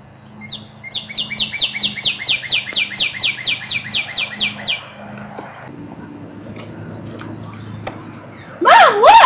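A bird's rapid chirping call, about four or five falling chirps a second, which stops about five seconds in. Near the end, a short, loud warbling sound swings up and down in pitch.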